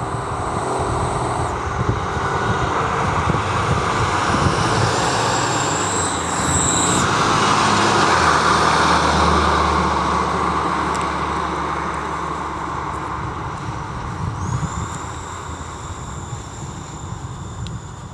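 Emergency vehicle driving past: engine and tyre noise swell to a peak about eight seconds in, with a low engine drone, then fade.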